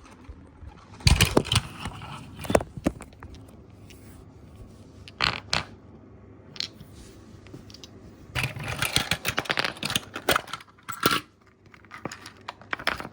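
Handling noise from a small plastic battery-powered desk vacuum: sharp plastic clicks and scrapes, with a busy run of rattling clicks a little past the middle, as its battery compartment is opened and worked.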